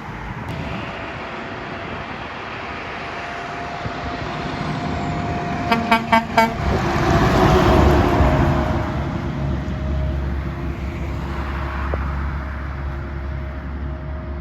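A truck approaching and passing close, giving four quick toots of its horn about six seconds in. Its engine and tyre noise is loudest just after the horn, then fades as it moves away.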